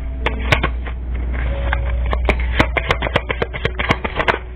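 A deck of tarot cards being shuffled and handled: a quick, irregular run of snaps and clicks that thickens about halfway through and stops just before the end, over a steady low hum.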